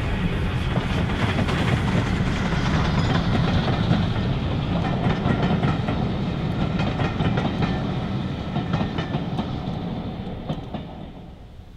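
A train passing close by, its wheels clicking over the rail joints in a quick run of clicks, then fading away near the end.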